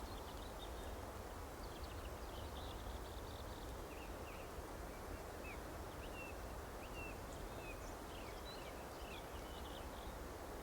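Small songbirds chirping in many quick, short notes, some overlapping, over a steady low background rumble.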